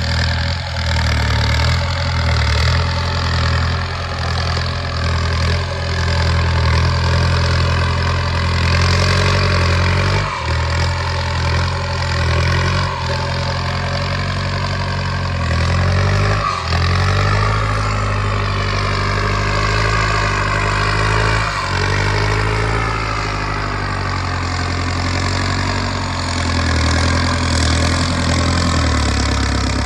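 Kubota M6240 tractor's diesel engine running under load while pushing with a front dozer blade, its note rising and falling as the load changes and dipping briefly three times.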